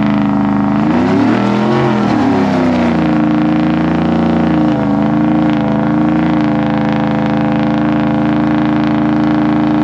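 Pickup truck engine revving hard in a burnout. The revs swing up and down in the first few seconds, then hold high and steady for the rest.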